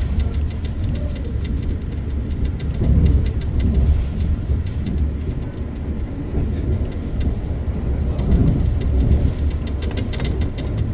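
KA Argo Bromo Anggrek passenger train running: a steady low rumble with many sharp clicks and rattles throughout.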